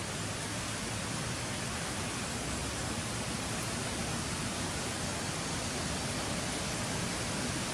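Steady, even hiss of rain and wind.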